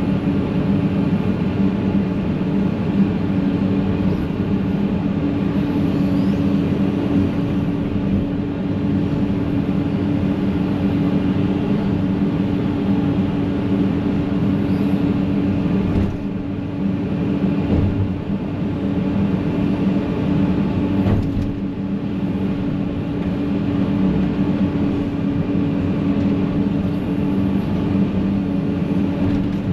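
Excavator's diesel engine running steadily while it works. A couple of sharp knocks stand out, one a little past halfway and another about five seconds later.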